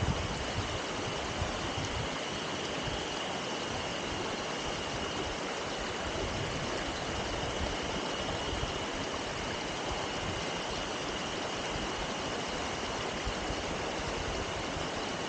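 Mountain stream rushing steadily, with a thin, steady high-pitched tone running over it and low wind rumble on the microphone.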